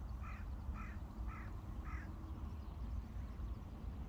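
A bird giving a series of harsh calls, about two a second, four of them, stopping about two seconds in, over a steady low rumble.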